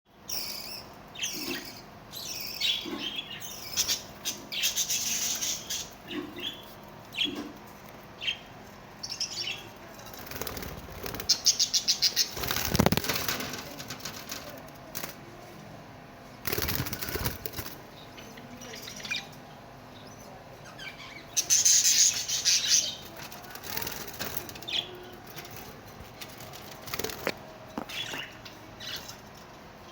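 Budgies and other small aviary birds chirping in short high calls, with flurries of wing flapping; the loudest is a run of rapid wingbeats about eleven to thirteen seconds in.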